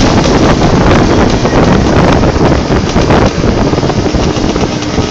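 Wind rushing over the microphone of a moving motorcycle, mixed with the bike's engine and road noise. It eases a little about halfway through.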